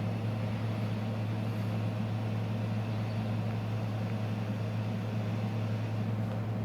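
Steady low hum of a running motor or fan, even and unchanging throughout.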